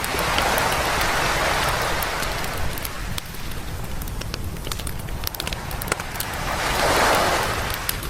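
Waves washing up on a beach, two swells about six seconds apart, over a low steady rumble of surf. A wood campfire crackles and pops throughout.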